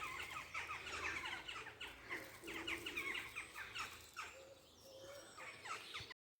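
A flock of corvids, which the speaker takes for jackdaws, calling over and over with many short, sharp, falling calls that overlap one another. The calls thin out after about four seconds and cut off abruptly just before the end.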